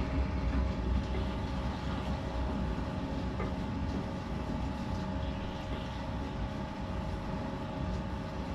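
Potter's wheel spinning with a steady low rumble and hum while clay is centred and opened on it.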